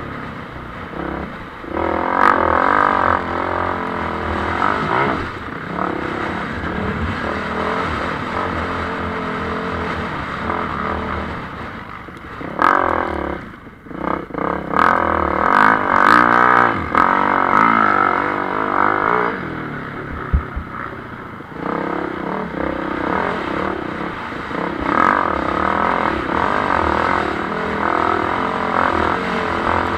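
Motocross bike engines revving as the bikes ride the track, the pitch rising and falling with the throttle. The sound swells as bikes come close: about two seconds in, again around the middle, and near the end.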